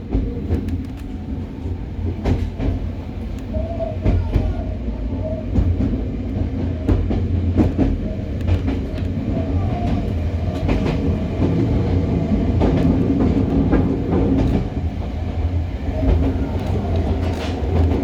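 Cabin running noise of a Hokuriku Railroad 03 series trailer car under way: a steady low rumble, with short clicks of the wheels over rail joints now and then.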